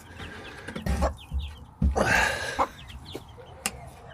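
Baby chicks peeping in short high falling notes, with low hen clucks and a burst of rustling about two seconds in as the birds are handled.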